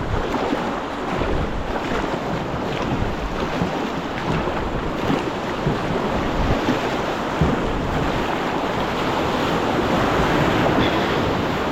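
Rushing water and wind buffeting the microphone, a steady dense noise with a few short sharp sounds over it.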